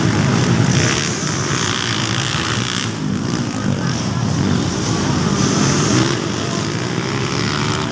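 Motocross dirt bike engines running hard on the track, a continuous buzzing engine drone.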